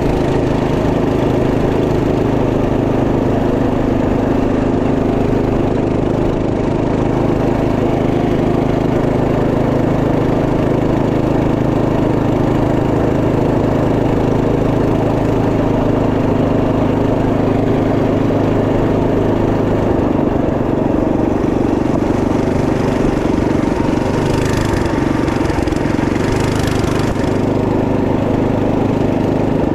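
A Trail Master MB200 minibike's 212cc single-cylinder four-stroke engine runs steadily. Its note shifts slightly about two-thirds of the way through, and a brief rush of hiss comes near the end.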